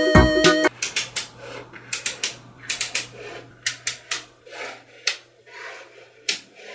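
A short stretch of electronic music cuts off under a second in. After that come irregular sharp clicks of small magnetic balls snapping together as they are handled, with a faint steady hum underneath.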